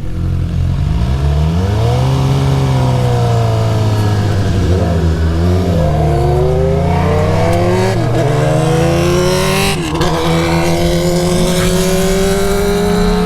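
Suzuki GSX-R750's inline-four engine pulling up through the gears. The pitch climbs, then dips briefly three times at the upshifts, and settles into a steady cruise near the end.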